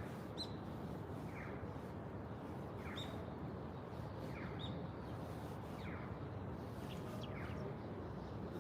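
A small bird calling over and over, short falling chirps about every second and a half with a few brief higher notes between, over a steady low background hum.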